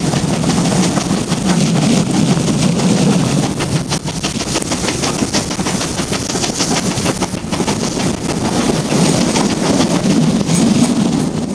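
Moving passenger train heard from an open carriage window: a steady rumble and clatter of the coaches running on the track, with wind buffeting the microphone.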